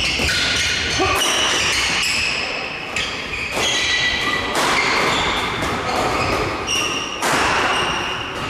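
Badminton doubles rally: rackets strike the shuttlecock again and again in sharp cracks, and court shoes squeak in short high squeals on the hall floor, all echoing in the large hall.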